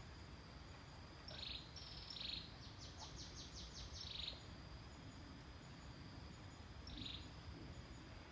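A wild bird calling: short high chirps about a second and a half and two seconds in, a quick run of rapid notes a little after three seconds, and one more chirp about seven seconds in. A thin steady high tone runs beneath.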